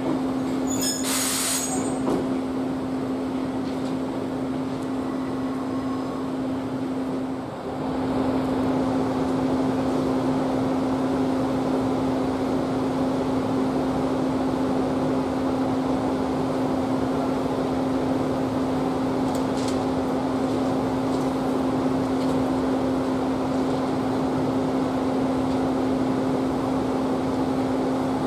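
Steady mechanical hum of a stationary electric-hauled train, an EF65 locomotive with 12-series coaches, holding one even tone. There is a short sharp hiss of air about a second in.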